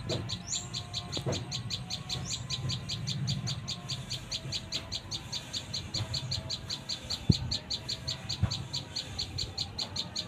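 A fast, steady series of high chirps, about five or six a second, with a few short rising bird chirps over it. There is a low rumble underneath and a single sharp knock about seven seconds in.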